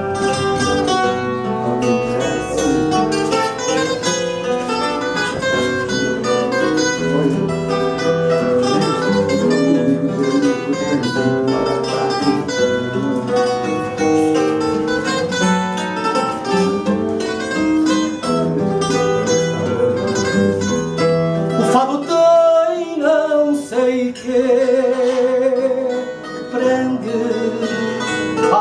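Instrumental fado introduction played by a Portuguese guitar carrying the melody over a viola de fado (classical guitar) accompaniment. About 22 seconds in the accompaniment thins out and the Portuguese guitar plays rapid repeated-note tremolo.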